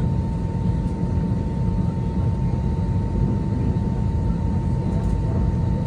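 Airbus A320 cabin noise with the engines running: a steady low rumble with one constant high-pitched tone on top, unchanging throughout.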